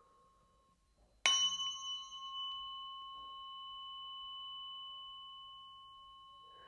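A solfeggio tuning fork, the 174 Hz fork, struck once about a second in and left ringing. It gives a clear high tone with a second, higher overtone, fading slowly.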